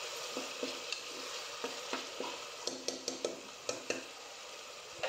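Onions and tomatoes sizzling in hot oil in an aluminium pressure cooker, with a steel spoon stirring and clicking against the pot now and then.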